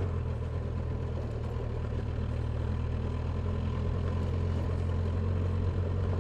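Motorcycle engine running at a steady, even speed with a constant low hum, under a haze of road and wind noise.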